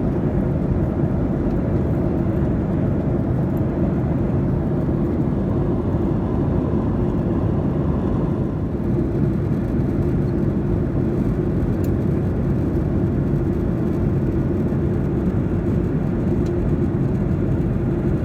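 Steady low rushing noise of a Boeing 737-900's engines and airflow heard from inside the passenger cabin.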